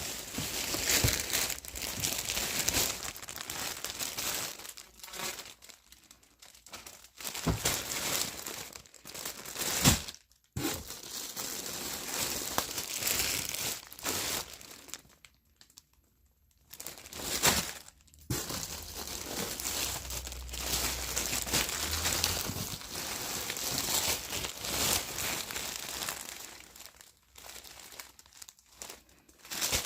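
Packaging being handled during the unboxing of a clothing parcel: irregular crinkling and rustling in uneven bursts, with a sharp knock about ten seconds in and a couple of brief pauses.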